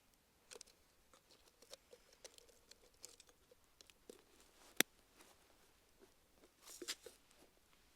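Wood campfire crackling softly, with scattered small snaps and one sharp, louder pop about five seconds in, then a short flurry of crackles near the end.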